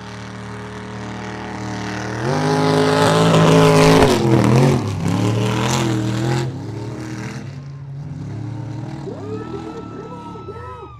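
Super-class mud truck engine at high revs during a mud bog run. It surges about two seconds in, is loudest for the next four seconds, and drops off sharply at about six and a half seconds. Short rising and falling revs follow near the end.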